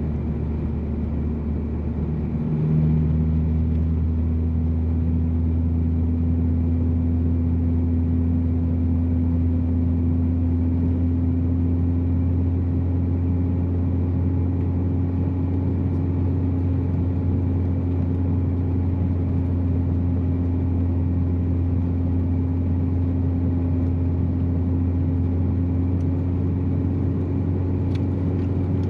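Inside the cabin of a big-turbo Volkswagen Jetta being driven: a steady low drone of engine and road noise. It gets louder about three seconds in, then slowly rises in pitch as the car gathers speed.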